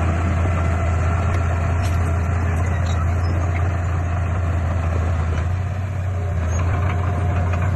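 Heavy diesel engine of earthmoving equipment running steadily, a deep constant drone that eases off slightly about six seconds in.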